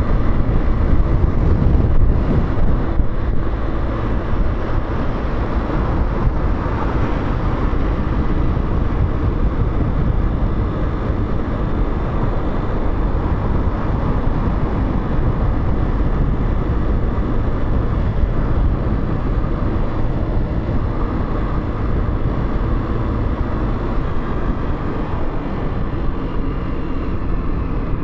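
Motorcycle riding on city roads: engine running with steady wind and road noise.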